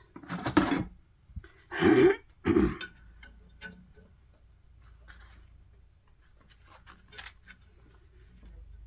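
A man coughs and clears his throat in three short bursts within the first three seconds, followed by faint scattered clicks.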